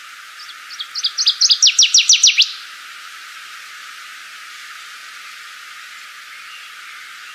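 A songbird singing one phrase: about a dozen quick, high, downward-sweeping whistled notes that speed up and grow louder, ending abruptly after about two seconds. A steady hiss runs underneath.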